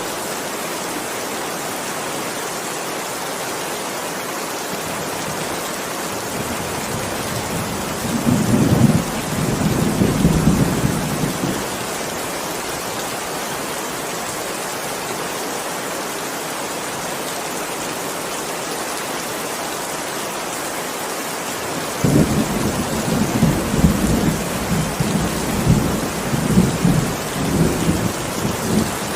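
Steady heavy rain with two rolls of thunder: a rumble about a third of the way in lasting a few seconds, and a longer one that breaks in sharply near the end and keeps rolling.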